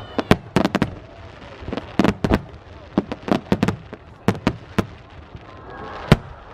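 Aerial fireworks shells bursting overhead in a rapid, irregular series of sharp bangs, the last and loudest about six seconds in. Crowd voices rise near the end.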